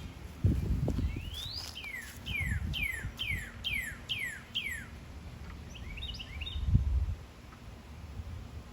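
A songbird singing: one rising whistle, then a run of about seven quick falling whistled notes, followed by a short jumble of chirps. Low rumbling sits underneath, with a couple of louder low thumps.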